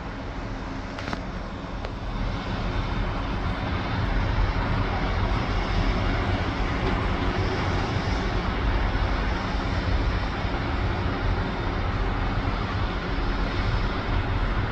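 Sea surf washing on the beach in a continuous rush, with a low rumble of wind on the microphone; it grows a little louder about two seconds in.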